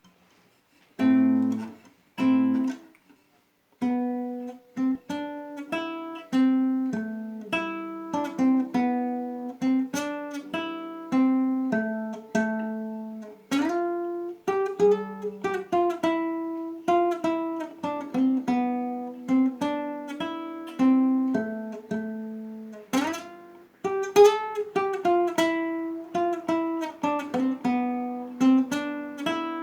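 Acoustic guitar played solo in an improvised folk tune: two chords are struck, then after a short pause a picked melody of ringing, decaying notes runs over low bass notes, with a few notes bent or wavering.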